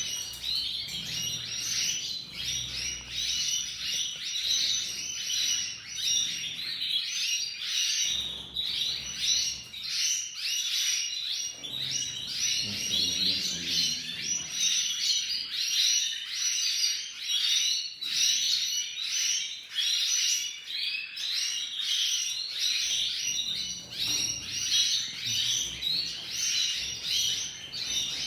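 Domestic canary singing a long, continuous song of rapid trills and warbles, high-pitched.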